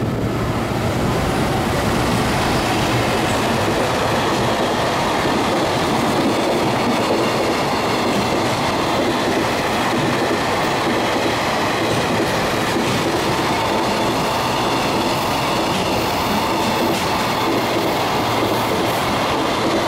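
Container freight train hauled by an EF210 electric locomotive passing through at speed: a steady, loud rolling of the wagons' steel wheels on the rails, with clickety-clack over the rail joints.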